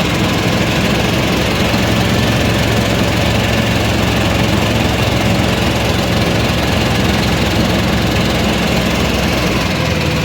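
Boat engine running steadily at a constant speed, a low even drone.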